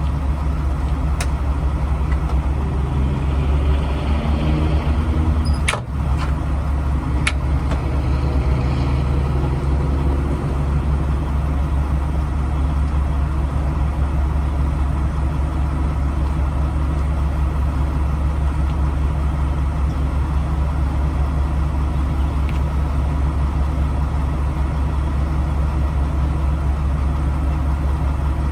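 Semi-truck diesel engine idling steadily, a constant low rumble. A few sharp clicks sound within the first several seconds.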